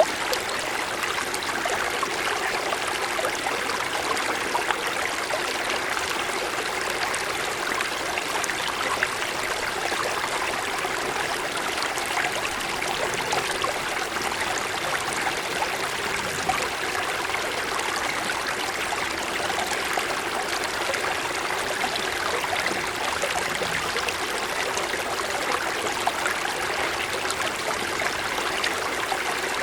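Mountain stream flowing over snow-covered stones: a steady rush of water with fine splashing and babbling.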